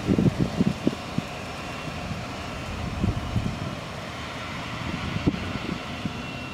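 Jet airliner engines running at a distance, a steady rush with faint high whining tones, while gusts of wind buffet the microphone, most strongly in the first second.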